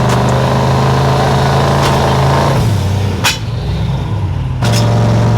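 Drag-race vehicle engine held at a steady high rpm, dropping off about two and a half seconds in, a single sharp crack a moment later, then the engine coming back up near the end.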